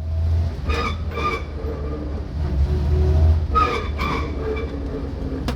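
Car engine and drivetrain rumbling low and steady, broken twice by a metallic grinding, squealing noise with ringing tones, a little under a second each time. It is an unidentified noise that comes when letting off the gas or pushing the clutch in.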